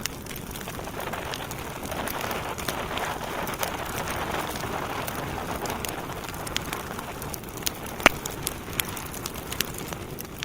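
Wood fire burning in a fireplace: a steady hiss of flames with frequent sharp crackles and pops from the burning logs, the loudest pop about eight seconds in.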